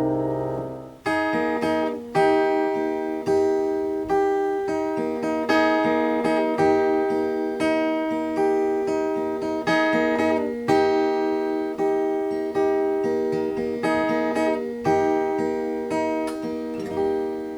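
Acoustic guitar playing an instrumental passage, plucked chords struck about once a second, each ringing and fading before the next, starting about a second in.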